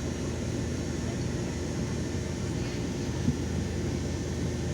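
LiAZ 5292.22 city bus under way, heard from inside: a steady low engine and road rumble, with a single short knock about three seconds in.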